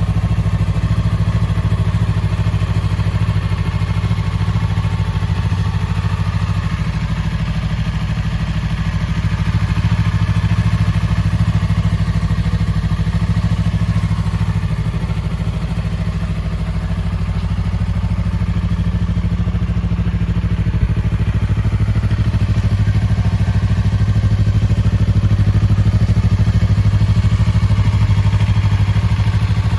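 Yamaha YZF-R3's 321 cc parallel-twin engine idling steadily, its pitch holding level throughout.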